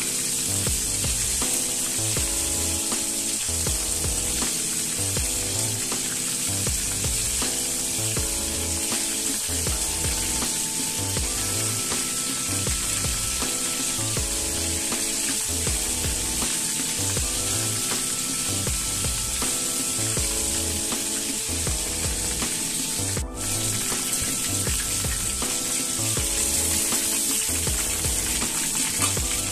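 Battered chicken pieces sizzling steadily as they deep-fry in hot oil in a wok, over background music with a steady beat.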